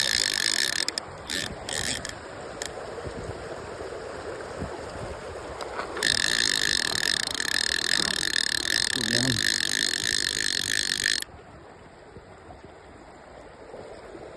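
Loop Classic fly reel's drag buzzing as a steelhead pulls line off: a few short spurts in the first two seconds, then one long run of about five seconds that stops abruptly, over the steady rush of river water.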